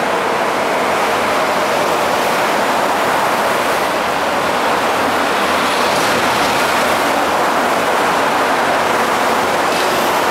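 MTR electric passenger train running past at speed: a steady, even rush of wheels on rail and moving air.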